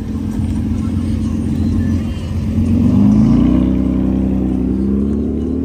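A car engine running and being revved, its pitch rising about halfway through and then holding steady at the higher speed.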